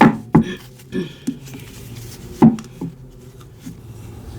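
Tarot cards being handled on a table: a few sharp, irregular taps and knocks as the deck is worked and cards are set down.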